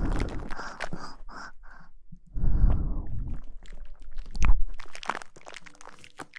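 Close-miked ASMR rustling and rubbing: irregular crackles and scratchy brushing, with a louder whooshing swell about two and a half seconds in and another burst near the middle.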